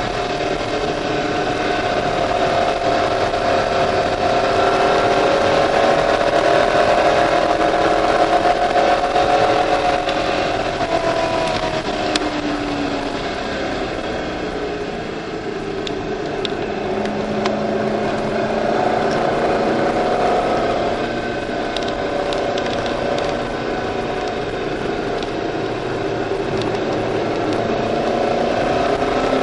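C5 Corvette Z06's LS6 V8 heard from inside the cabin on track, its note rising and falling as the driver accelerates and lifts through the corners. It drops lowest and quietest about halfway through, then builds again.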